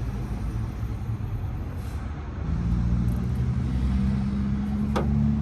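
A vehicle engine running, a low steady rumble with a hum that grows louder about halfway through, with a short sharp click near the end.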